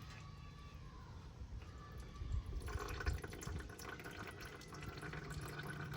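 Used engine oil from a Polaris Sportsman 570 ATV draining and trickling into a drain pan. The trickle gets louder about three seconds in.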